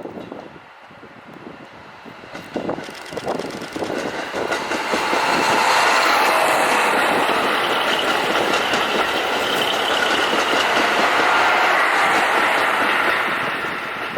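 Limited Express Okhotsk diesel train passing at speed. A few clatters build over the first few seconds into a loud, steady rush of wheels and train noise that eases slightly near the end.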